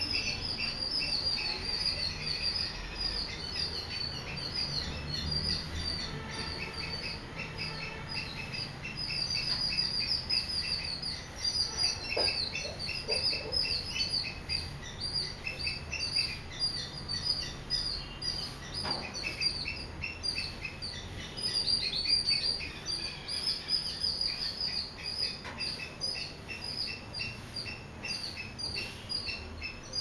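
Small birds chirping in a continuous, rapid twittering of short high notes, with a faint low rumble underneath.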